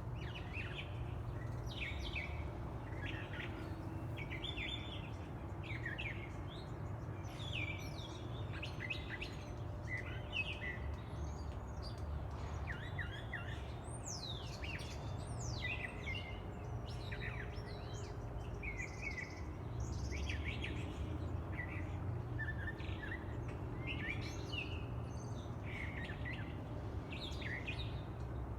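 Several birds chirping and singing, short calls following one another without a break, with a few high sweeping notes about halfway through. A steady low rumble runs underneath.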